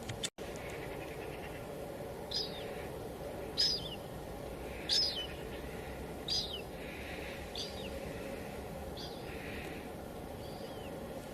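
Steady hiss of light drizzle with a bird calling over it: short, high, downward-sliding chirps repeated about every second or so. The sound cuts out completely for an instant just after the start.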